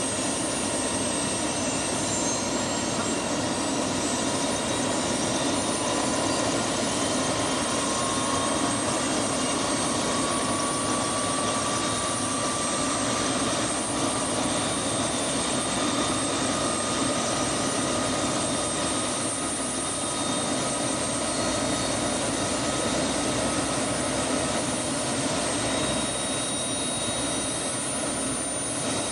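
Turbine helicopter running steadily: an even engine noise with a constant high-pitched turbine whine.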